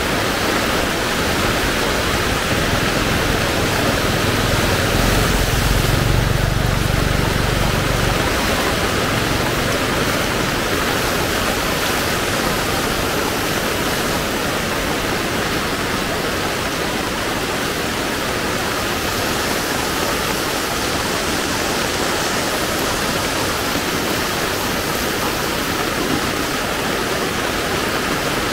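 Heavy rain pouring steadily, a dense even hiss. A low rumble swells briefly about five to eight seconds in.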